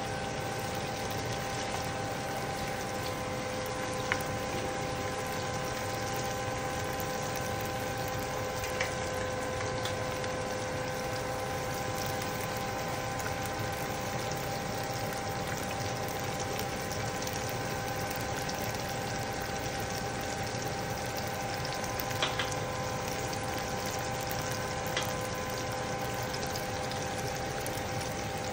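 Canned mackerel with onions and bell peppers frying in oil in a pan: a steady sizzle under a constant hum, with a few light taps of a utensil against the pan.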